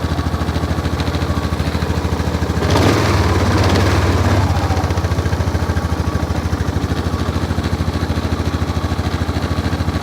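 Honda Foreman 500 ATV's single-cylinder engine idling cold in freezing weather, with a steady pulse. A brief rev about three seconds in swells louder for a second or two, then settles back to idle.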